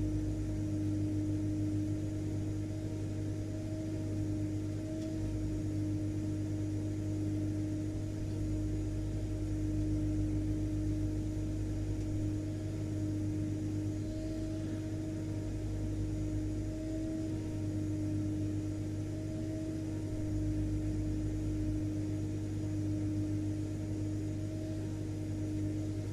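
Vacuum cleaner motor running steadily: an even hum with a constant whine over a rushing airflow hiss, no change in speed.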